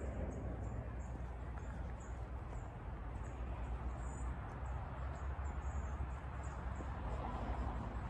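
Woodland birds giving very high, thin chirps in a steady series, about two or three a second, over a continuous low rumble and rustling background.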